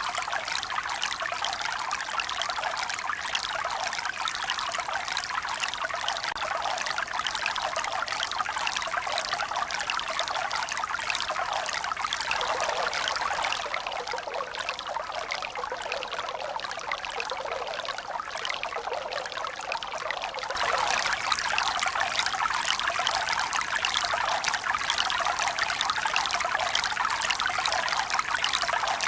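Steady running water, a dense splashing, trickling hiss with no slow wave swells. It drops a little about halfway through and comes back louder about two-thirds of the way in.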